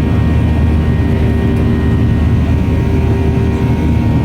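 Steady cabin noise of a Boeing 737-900 heard from inside the cabin: a loud, even low drone from its CFM56 jet engines, with a few steady hums on top.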